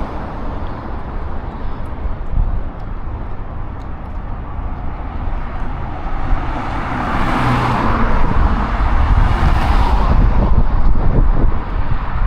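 City road traffic, with a motor vehicle passing close by: the noise swells from about halfway through and drops away near the end.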